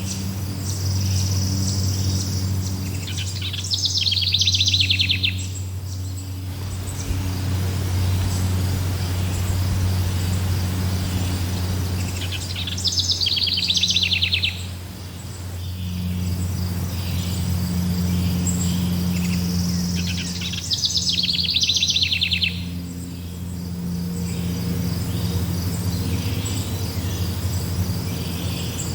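Forest birdsong: a bird sings a loud, rapid trilled phrase three times, roughly eight seconds apart, over a steady high chirring of insects and a low steady hum.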